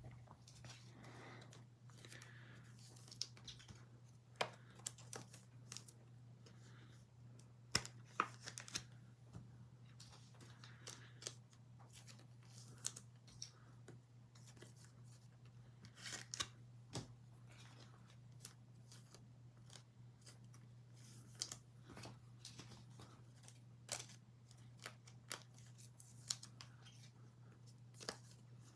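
Faint handling sounds of 2021 Absolute Football trading-card packs being torn open and the cards shuffled: scattered short clicks and rustles, over a steady low hum.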